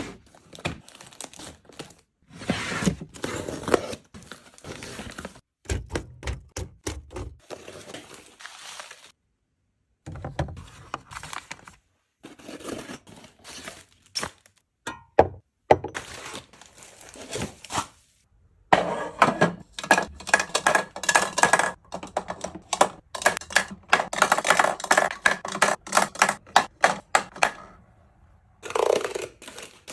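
Items being handled and put away during restocking: rapid clicks, taps and thunks with crinkling packaging, in short clips that cut off suddenly.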